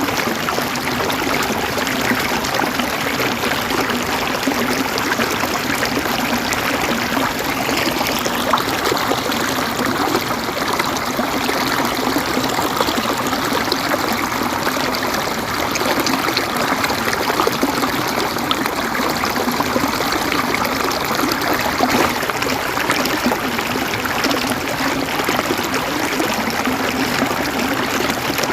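Water flowing steadily, an even, unbroken rush with no pauses.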